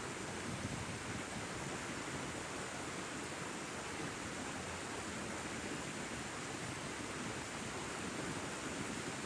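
Steady rushing noise, even and unbroken, of the kind made by fast-flowing water or wind.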